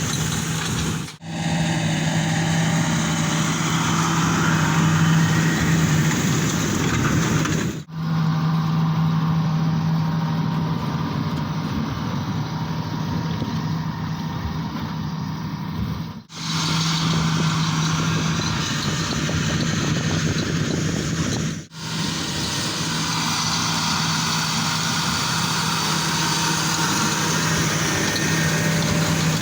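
John Deere 8345R tractor and Krone Big Pack large square baler running steadily under load while baling hay, a constant engine hum with machinery noise over it. The sound drops out briefly four times.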